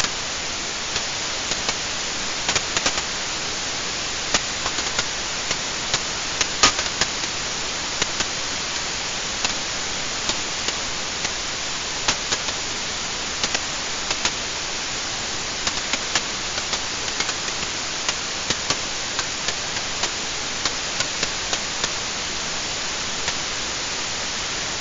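Wood fire burning in a fireplace: a steady hiss with irregular sharp crackles and pops, the loudest about six and a half seconds in.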